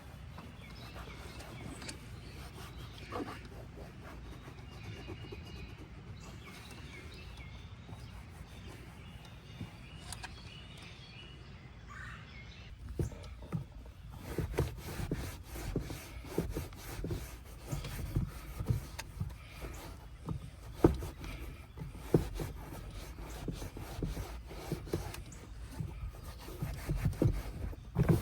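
Hand scrubbing and rubbing on a car's interior surfaces, with irregular strokes and handling knocks. It starts about halfway in over a steady low background.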